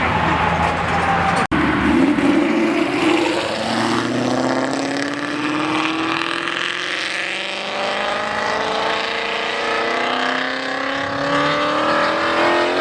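Car engine accelerating hard, its pitch climbing slowly and steadily for several seconds, after a brief dropout and a falling engine note about a second and a half in.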